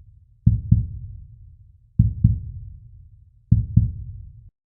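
Slow heartbeat sound effect: four low double thumps (lub-dub), about a second and a half apart, each fading away, stopping abruptly near the end.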